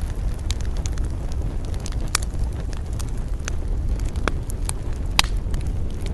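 Wood campfire crackling, with sharp pops about once a second over a steady low rumble.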